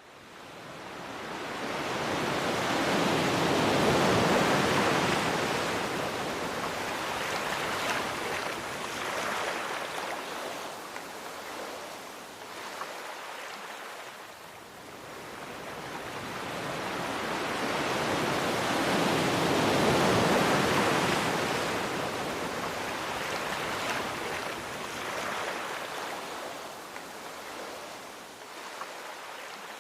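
Sea waves on a shore: a wide rushing wash that swells up twice, about sixteen seconds apart, and eases back between surges.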